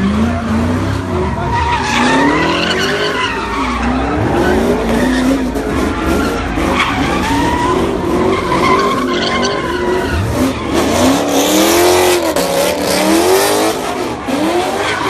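A car engine revving hard, its pitch rising and falling again and again, over the screech of spinning tires: a car doing donuts or burnouts.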